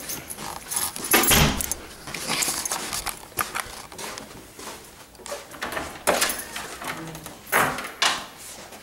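Irregular knocks, clinks and rustles of things being handled, with louder clatters about a second in and again near six and seven and a half seconds.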